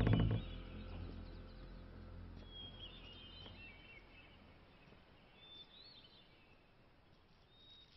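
Faint outdoor ambience with a few short, high bird chirps scattered through it. The film's music cuts off just after the start.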